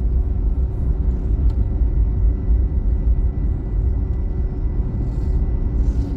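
Steady low rumble inside the cabin of an Airbus A321neo on the ground just after landing, with a faint steady high whine over it.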